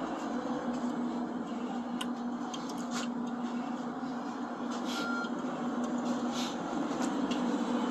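A steady mechanical hum with a held low tone, with a few faint clicks scattered through it.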